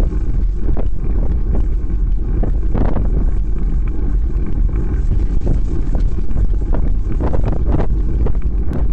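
Wind buffeting the microphone of a camera carried on a moving bicycle: a loud, steady low rumble with short surges every second or so.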